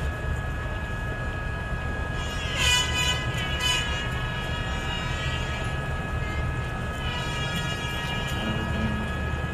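Formula One cars' 3-litre V10 engines running at high revs: a steady high-pitched whine over a low rumble, with louder surges as cars pass about two and a half seconds in and again around seven seconds.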